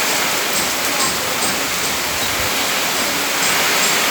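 Heavy rain falling in a strong wind: a loud, steady, dense hiss, with a short low gust about two seconds in.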